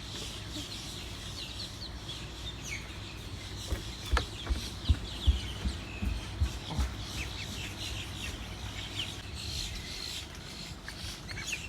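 Small birds chirping, many short high chirps throughout. Several brief low thumps stand out as the loudest sounds about four to seven seconds in.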